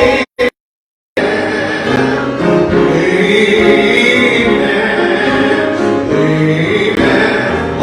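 Gospel choir singing with musical accompaniment. Just after the start the sound cuts out completely for nearly a second, then the singing resumes.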